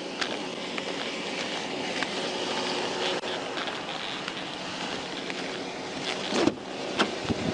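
Steady roadside noise of traffic and wind on the microphone, with a few faint clicks and a sharper knock about six seconds in.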